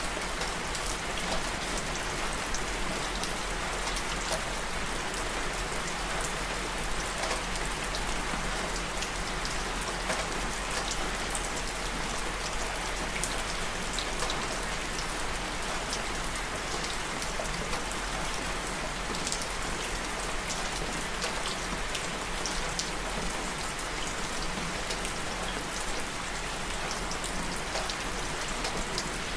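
Steady rain falling and pattering on a surface, with many small drop ticks scattered through an even hiss.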